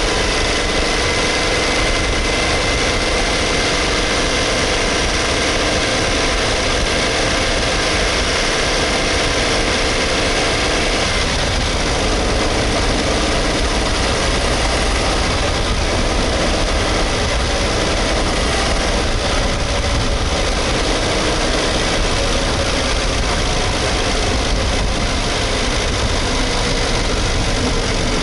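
Suzuki Hustler's three-cylinder kei-car engine running steadily at an even speed, heard close up at the engine bay.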